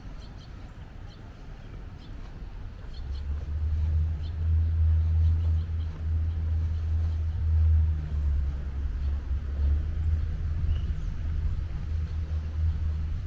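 A low, steady rumble that sets in about three seconds in and holds, with a few faint bird chirps early on.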